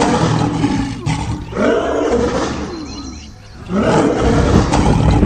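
Horses squealing and screaming in loud, harsh calls, one after another, with a short lull about three seconds in.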